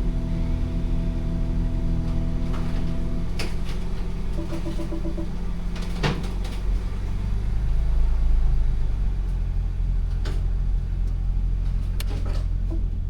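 Truck engine running steadily at idle, with several sharp knocks like doors or latches being worked and a short run of quick beeps.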